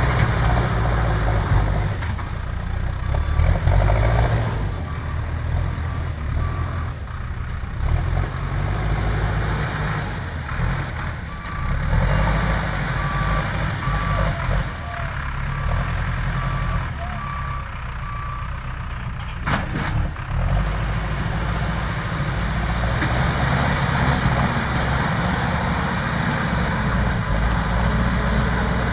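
JCB backhoe loader's diesel engine running under working load, with its reversing alarm beeping steadily in two stretches. A couple of sharp knocks come about two-thirds of the way through.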